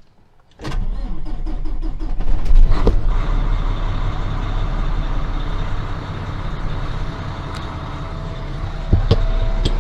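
Diesel truck engine cranking over and firing, loudest as it catches about two seconds in, then running steadily. The engine has been losing its prime, which the owner puts down to an injector pump issue.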